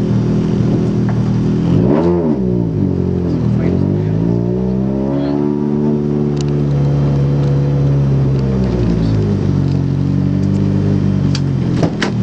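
Ford Focus rally car's engine heard from inside the cabin, running at low revs with a quick rev blip about two seconds in, then a slower rise and fall in revs as the car moves slowly forward. A few sharp clicks near the end.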